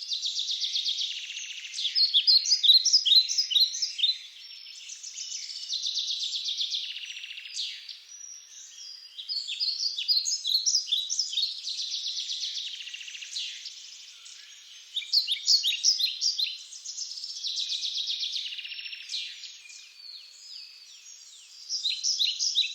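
Songbirds singing in woodland: repeated phrases of rapid high trills and chirps, each lasting a few seconds, with short gaps between.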